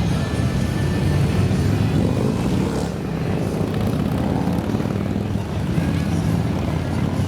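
Motorcycle engines running together in a steady drone as a column of motorcycles rides off.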